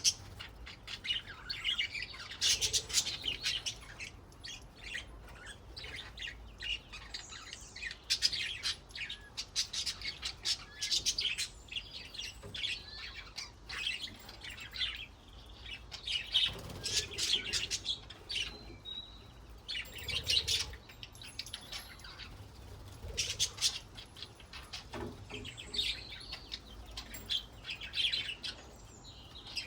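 Budgerigars chattering and warbling: a continuous stream of rapid chirps, trills and squeaky notes, coming in bunches every few seconds.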